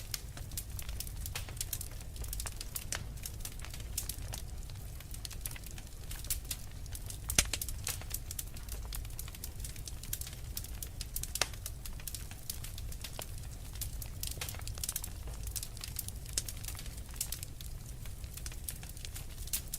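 Wood fire crackling, with a dense run of irregular small snaps and two louder pops, one about seven seconds in and one about eleven seconds in, over a steady low rumble.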